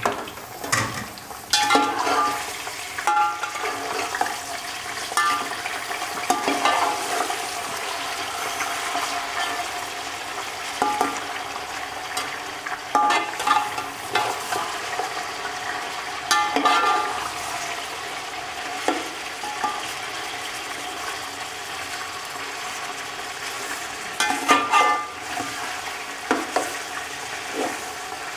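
Chicken pieces frying in hot oil in a large metal pot, a steady sizzle, with a metal spatula scraping and knocking against the pot every few seconds as the chicken is stirred.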